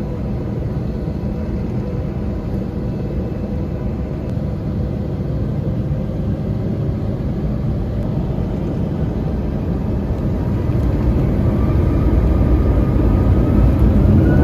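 Cabin noise of an Airbus A321 taxiing, with the steady low rumble of its IAE engines. In the last few seconds the sound grows louder and a faint whine rises in pitch as the engines spool up.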